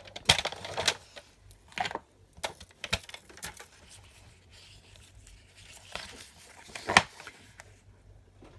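Card stock being handled and cut to size: papery rustling and sliding, with several sharp taps and clicks, the loudest about seven seconds in.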